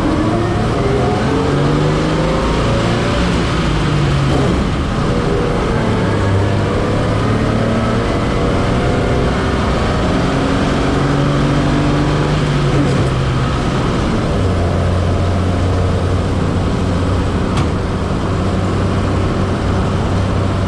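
1941 truck's engine running under way, heard from inside the cab over steady road noise. The engine note climbs, drops back and climbs again several times as the truck drives along.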